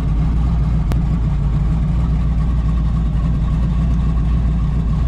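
A car engine idling close by: a loud, steady low rumble, with a single click about a second in.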